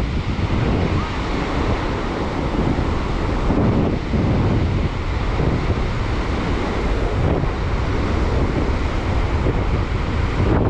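Strong wind buffeting the microphone, over the steady wash of surf breaking on the Baltic Sea shore.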